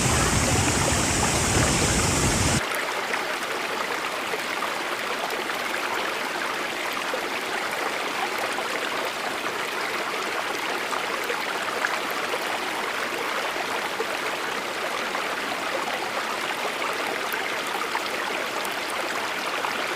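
Huka Falls, the Waikato River rushing through its narrow gorge and over the drop: a steady noise of fast-moving water. About two and a half seconds in it changes abruptly from a fuller, deeper rush to a lighter, hissier one.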